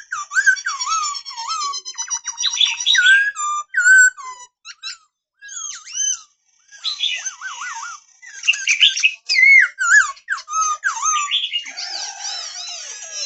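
Black-throated laughingthrush singing: a varied run of whistled phrases, warbling trills and quick rising and falling notes, with a short pause midway.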